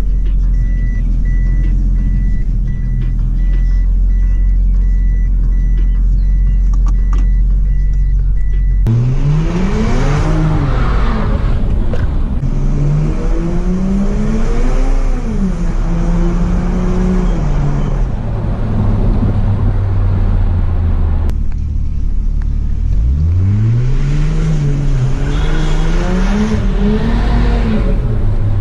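Toyota JZX100's turbocharged 1JZ-GTE inline-six, first running steadily at low revs with a faint, evenly repeating beep. About nine seconds in it pulls hard, the revs climbing and dropping through several gear changes. It eases off, then pulls hard again near the end.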